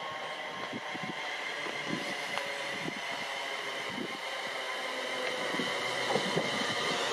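An electric-main-line train approaching on the track, its sound growing steadily louder, with a steady high whine over a rushing hiss.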